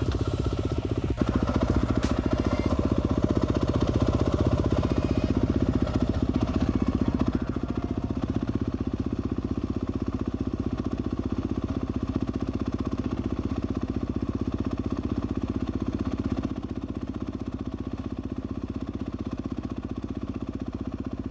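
Orion Moto RXB250L's 249cc air-cooled four-stroke engine, with SmartCarb SC3 carburettor, running steadily as the dirt bike is ridden. It grows a little quieter after the first several seconds.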